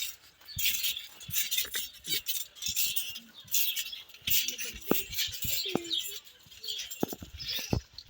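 A pig eating: irregular crunching and chewing with sharp clicks, a few times a second.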